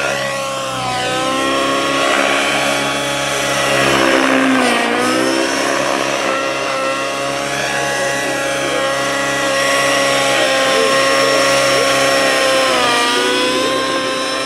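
Radio-controlled model helicopter in flight, its motor and rotor whine rising and falling in pitch as it manoeuvres, with a marked dip about a third of the way in and another near the end.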